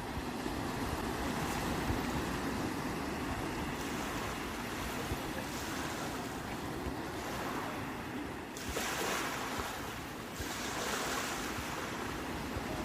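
Sea waves rushing and breaking in a continuous wash, with a louder, hissier surge of a breaking wave about two-thirds of the way through.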